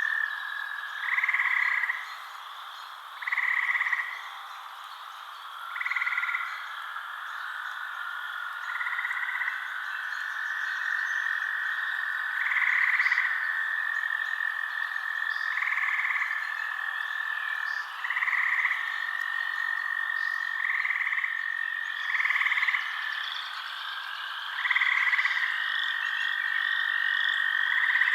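Frogs calling: a short call repeats every two to three seconds over a steady high-pitched trill.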